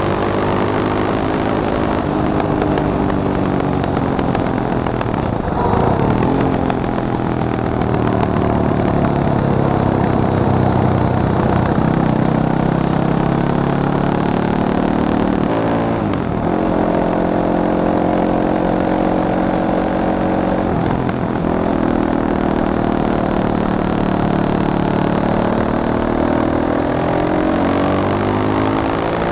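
Fantic Caballero 500's single-cylinder four-stroke engine running hard. Its pitch climbs slowly under throttle, then drops suddenly several times, as with throttle lifts or gear changes, before rising again.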